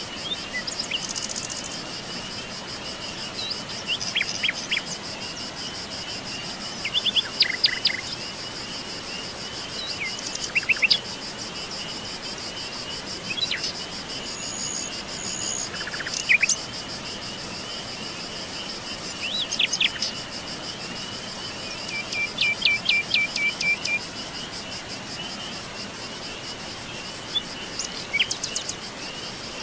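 Songbirds calling in short scattered chirps and phrases, including a quick run of repeated notes, over a continuous high-pitched trilling of crickets or other insects and a soft steady hiss.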